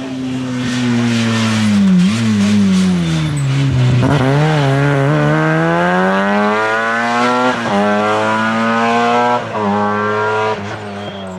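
Groupe F2000 rally car engine at high revs. Its pitch falls over the first few seconds as the car slows for a corner, then climbs as it accelerates hard, with two sharp upshifts in the second half.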